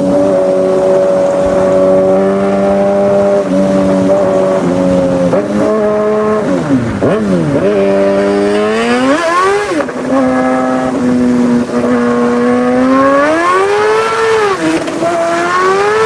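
Superbike engine running at high revs. Its pitch holds steady, drops sharply and climbs back about seven seconds in, then rises and falls several times with the throttle.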